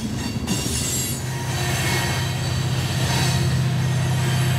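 Loaded coal hopper cars rolling around a curve, their steel wheels squealing against the rail in many thin high tones. A low steady drone builds up from about a second and a half in.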